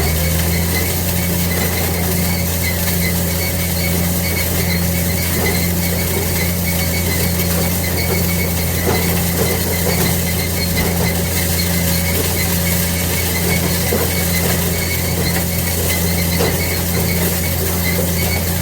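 White 2-135 tractor's diesel engine running steadily under load while pulling a hay baler, with the baler's pickup and drive machinery clattering and squealing over the drone.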